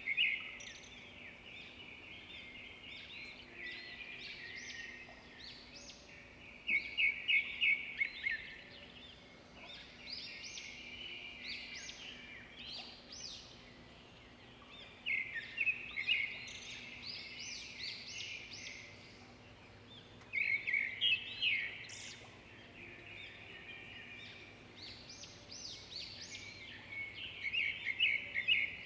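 Small birds chirping and trilling in quick bursts that come again every few seconds, over a faint steady low hum.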